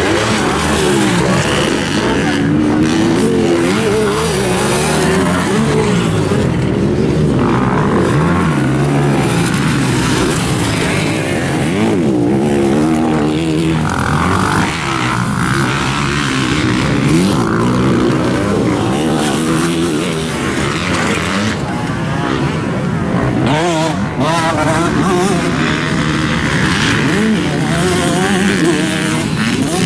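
Several motocross dirt bikes racing, their engines revving up and down in rapid overlapping rises and falls as riders accelerate and shift through the course.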